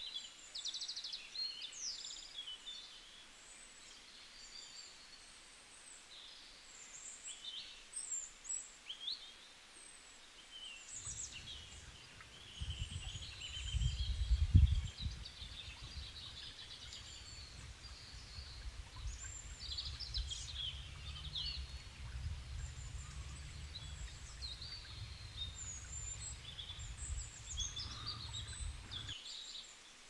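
A chorus of small songbirds chirping and trilling in short high calls. From about eleven seconds a low rumble joins them, loudest a few seconds later, and stops shortly before the end.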